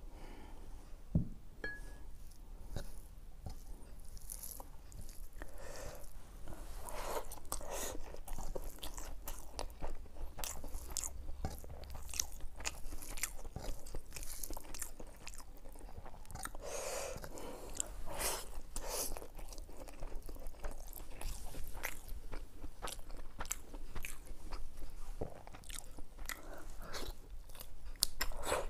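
Close-miked chewing and biting of mutton curry and khichdi eaten by hand: wet, crunchy mouth sounds and lip smacks in an irregular run, with one sharp knock about a second in.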